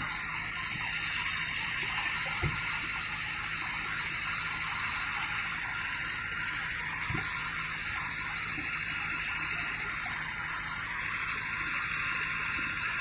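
Steady rushing, gushing water, with two dull thumps a few seconds apart.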